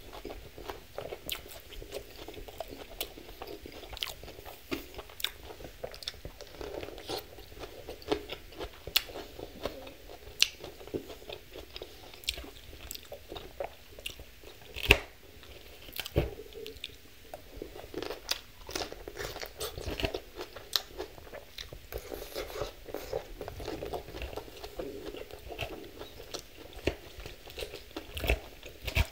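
Close-miked chewing and crunching of a mouthful of lettuce salad, with sharp clicks of a metal fork against the platter, the loudest about halfway through.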